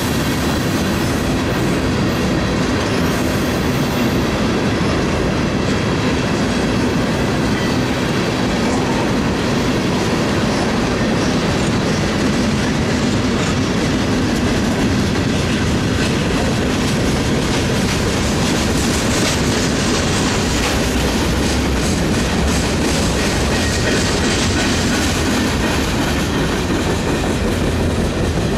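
Freight cars of a mixed freight train rolling past close by: steel wheels on the rails making a loud, steady rumble and clatter.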